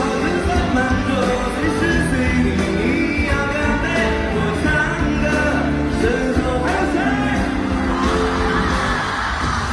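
Live pop-rock concert music: a band with a steady bass and male voices singing, heard through a large hall's PA.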